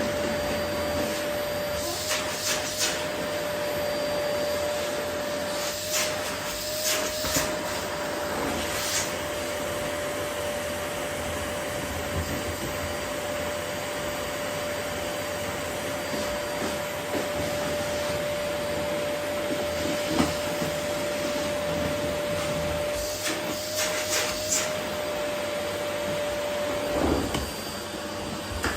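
Vacuum cleaner running steadily with a constant motor hum, sucking up rose petals from the floor. Brief clattering knocks come and go several times over the steady noise.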